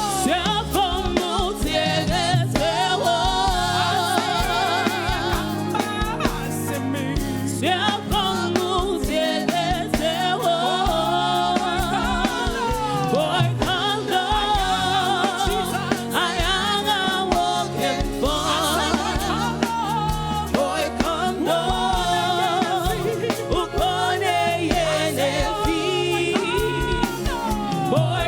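Gospel praise-and-worship song: voices singing a melody with vibrato over a band accompaniment with bass and drums.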